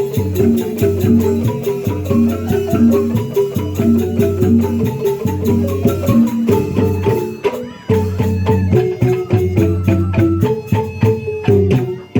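Music of struck metal-keyed percussion with drums and rattles, playing a fast, dense, steady rhythm typical of East Javanese or Balinese gamelan.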